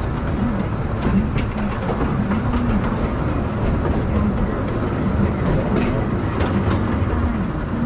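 Narrow-gauge forest railway train running, heard from aboard a passenger car: a steady rumble of wheels on the rails with frequent light clicks from the track.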